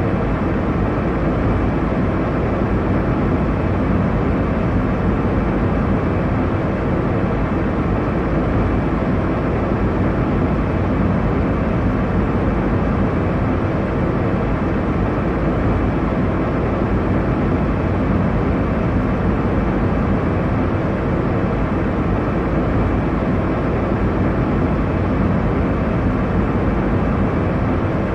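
Steady airliner cabin noise in flight: the even rush of air and engine noise, heaviest in the low end and unchanging throughout.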